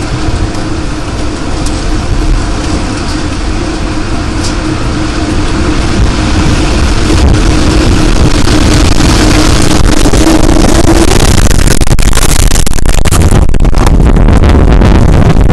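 EF4 tornado winds roaring around and through a house, a dense rushing noise that grows louder and overloads the microphone from about halfway through. A steady tone under the roar stops about eleven seconds in.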